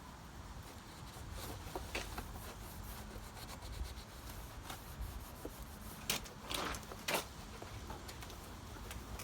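Rubbing and light handling noises, with scattered small clicks and a few sharper scraping strokes about six to seven seconds in.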